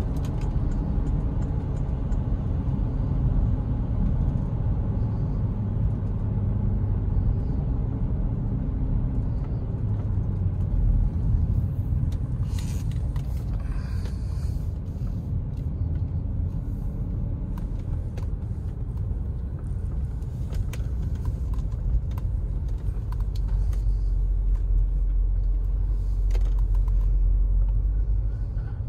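Porsche Cayenne Turbo's twin-turbo V8 with factory sports exhaust, cruising at a steady pace, heard from inside the cabin as an even low rumble mixed with road noise.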